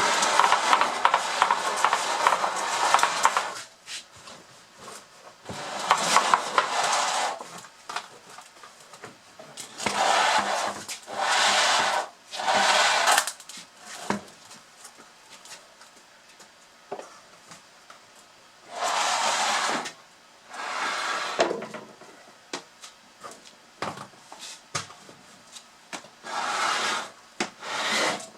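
Pieces of firewood sliding and scraping down a culvert drain pipe chute, each run lasting one to a few seconds with knocks along the way, about seven runs several seconds apart.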